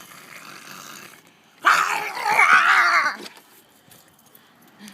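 A baby imitating a dog with a rough, growling bark-like vocal sound lasting about a second and a half, starting under two seconds in.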